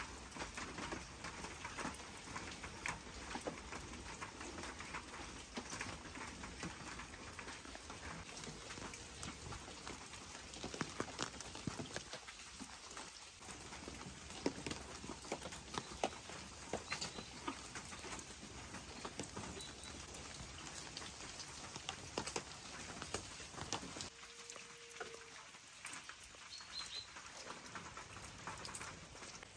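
Rain falling on a farmyard, with many sharp drop hits scattered across an even hiss.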